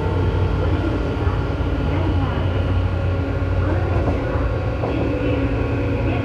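Tobu 9000-series train running, heard from above the armature chopper of car MoHa 9204, a car with an abnormal chopper noise: steady chopper whine tones that shift up and down in pitch over a low motor and rail rumble.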